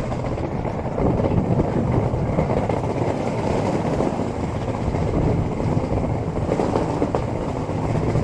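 Skateboard wheels rolling over a rough street, a steady coarse rumble that keeps going without a break.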